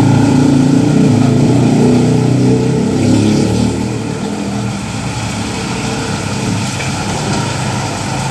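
A motor vehicle's engine running close by, loudest for the first few seconds and then fading away, over a steady hiss of rain.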